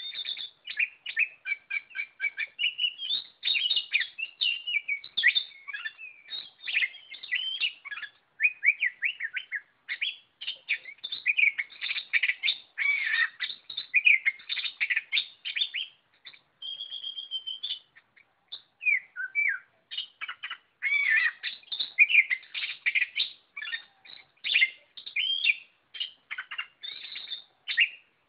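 Oriental magpie-robin singing in full, continuous song: rapid, varied whistled phrases and trills, pausing only briefly a few times.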